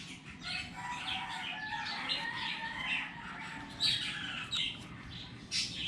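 Birds calling in the background: many short, high chirps repeating throughout, over a faint wavering whistle.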